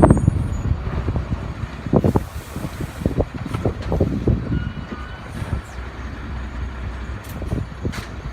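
Storm-force wind buffeting the microphone: a low rumble with uneven gusts and short thuds.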